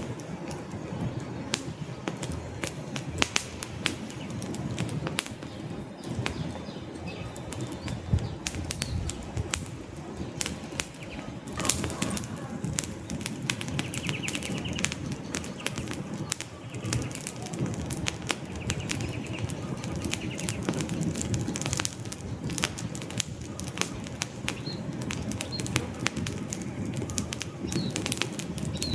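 Wood fire burning in a fireplace: frequent sharp crackles and pops from the logs over a steady low rumble of flames.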